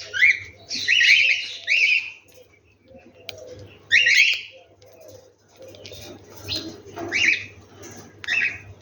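Birds chirping: loud, harsh, sweeping chirps come in irregular bursts every second or so, with fainter low calls underneath.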